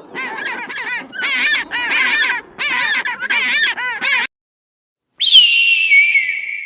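A flock of geese honking, many calls overlapping, cut off suddenly about four seconds in. About a second later comes a long whistle that drops in pitch and then holds steady.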